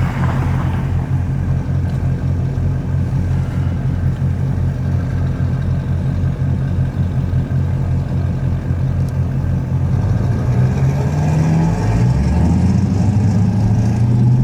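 Dodge Scat Pack's 392 HEMI V8 running with a steady, pulsing low exhaust note, then the revs climb about ten seconds in and hold higher.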